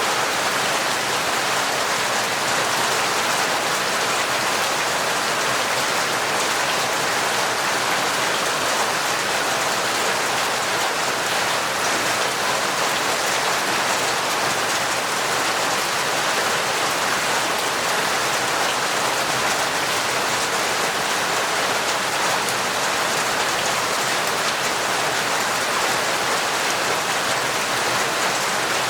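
Heavy, torrential rain falling steadily, a dense, even hiss of many drops with no changes or thunder.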